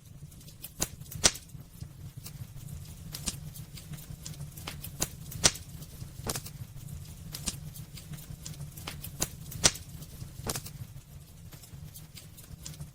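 Wood fire burning in a fireplace, crackling with irregular sharp pops and snaps over a steady low rumble of the flames; the loudest pops come about a second in, near the middle, and about three-quarters through.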